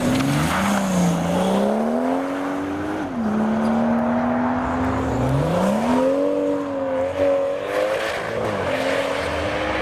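A car engine accelerating away: its revs climb, drop sharply about three seconds in as it shifts gear, hold steady, then climb again in the next gear.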